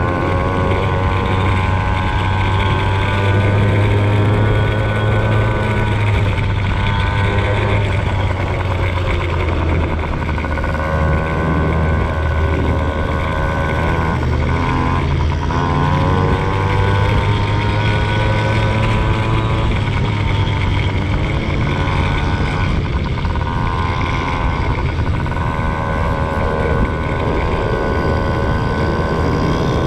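Motocross bike engine running hard, its pitch climbing and falling again and again as the throttle is opened and shut, with brief drops off the throttle.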